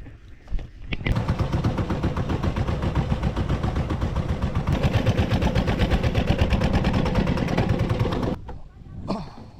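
A small engine running with a rapid, even knocking beat. It starts abruptly about a second in and cuts off near the end.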